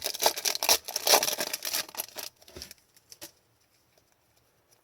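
Trading cards and pack wrapper being handled, a dense crinkly rustle with small clicks that stops about two seconds in, followed by a few light taps.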